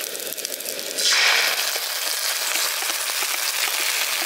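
Onions and capsicum frying in oil in a wok, with light crackles; about a second in, sauce paste poured into the hot oil sets off a loud, steady sizzle.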